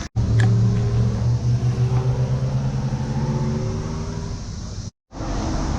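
Turbocharged car engine running steadily, its pitch easing slightly down over a few seconds, with a brief break about five seconds in.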